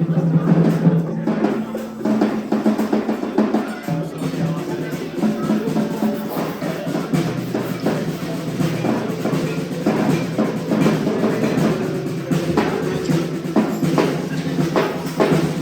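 Many percussion instruments played at once with no common beat: a dense scatter of drum, cymbal and metal hits over several overlapping steady ringing tones.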